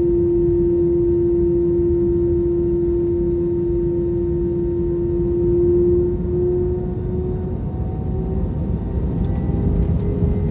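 Cabin noise of an Airbus A321 with its CFM56 engines running near idle on the ground: a steady low rumble under a strong engine whine. About six seconds in, the whine fades and slightly higher tones slowly rise as the engine speed changes.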